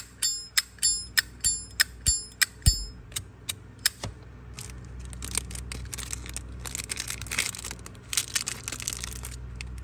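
Zippo lighter lid flicked open and snapped shut over and over, a sharp metallic clink about three times a second that stops about three seconds in. Then a crinkling, rustling sound of handling.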